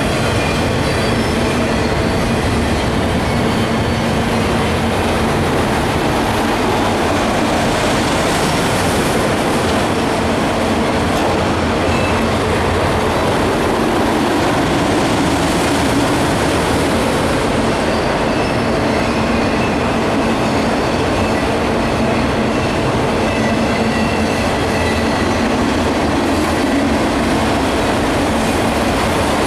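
Freight train rolling past at close range: a steady, loud rumble of wheels on rail, with faint high squeals from the wheels coming and going.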